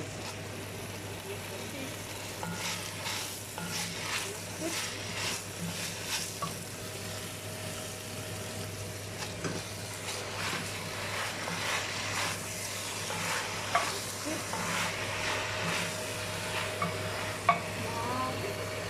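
Chicken and vegetables sizzling in a hot oiled pan while being stirred and tossed, in repeated short scraping strokes, with two sharp clinks in the second half. A steady low hum runs underneath.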